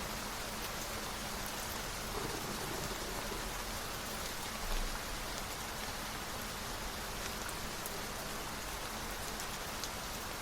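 Steady rain falling, an even hiss with scattered faint drop ticks, and a brief low bump about halfway through.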